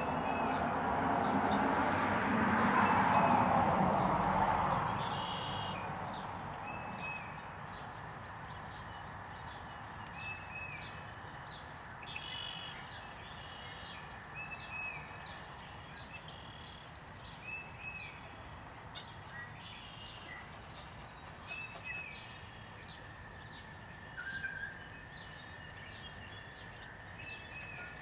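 Outdoor ambience with birds calling, short chirping notes repeated every second or two. A broad rushing noise swells and fades over the first five seconds or so.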